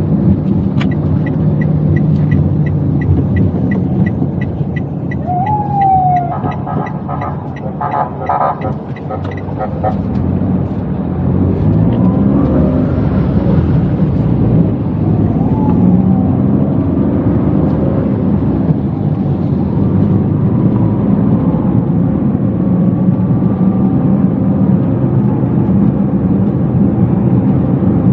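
Inside a small Toyota Wigo hatchback while it drives: steady engine and road noise, with street traffic around it. A regular ticking runs for about the first ten seconds, then stops.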